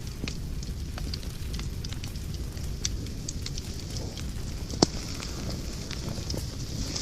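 Wood fire crackling in a fireplace: a steady low rush of flames with scattered small pops, and one loud sharp snap about five seconds in.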